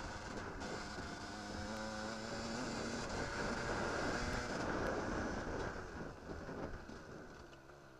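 Enduro motorcycle engine under hard throttle, heard from the bike itself, its pitch rising and falling as it revs across rough ground. Over the last couple of seconds the throttle eases and the engine gets quieter.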